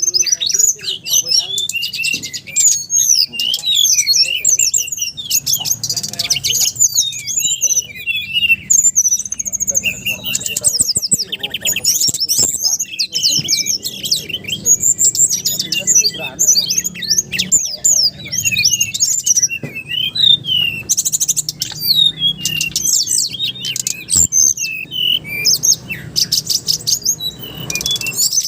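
A songbird singing loudly and without pause: a dense run of high-pitched chirps, short whistled glides and rapid trills of quickly repeated notes.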